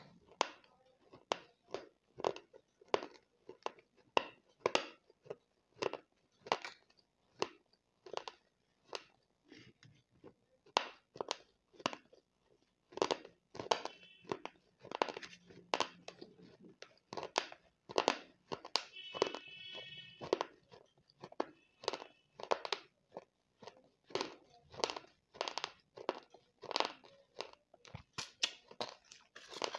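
Close-up chewing of baked clay powder and clay-pot crumbles: a steady run of gritty crunches, about two a second.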